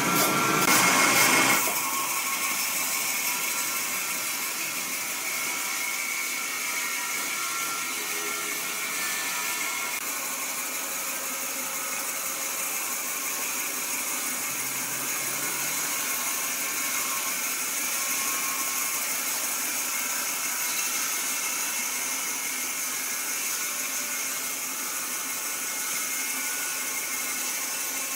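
Woodworking machinery running steadily with a high, hissing sound. It is louder over the first second or two, then settles to an even level.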